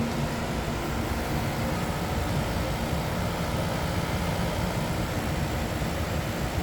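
Portable air conditioner running: a steady hum of its compressor and fan under an even rush of air.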